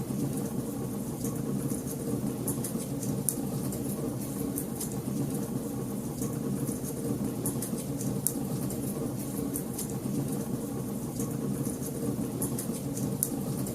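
Wood fire in a fireplace crackling, with many small, sharp pops and snaps at irregular moments over a steady low rumble.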